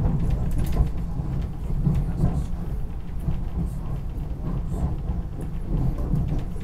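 Steady low rumble of a moving SEPTA Regional Rail electric commuter train heard from inside the passenger car, with scattered light clicks from the wheels and track.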